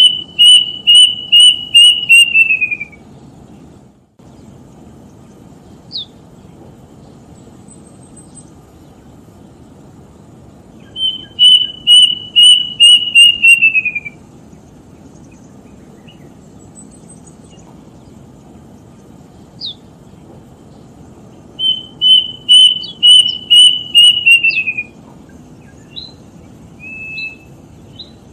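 A bird singing a phrase of about eight quick, evenly repeated whistled notes that slide lower at the end. The phrase comes three times, roughly ten seconds apart, with a few faint short calls in between.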